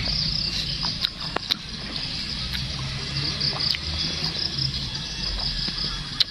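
Mouth chewing a bite of Malay apple (jambu bol) flesh, heard close up, with a few sharp clicks. Behind it, a steady chirring of insects.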